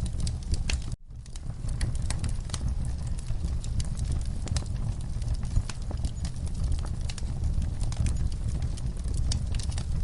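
Wood fire in a fireplace crackling, with many sharp pops over a steady low rumble. The sound cuts out for an instant about a second in, then fades back up.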